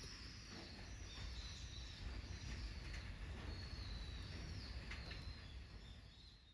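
Birds chirping in repeated short curved calls over a steady low outdoor rumble, fading out at the end.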